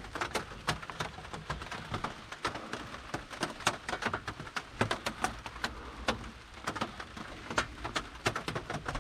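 Rain falling, with drops striking a surface close to the microphone as irregular sharp ticks, several a second.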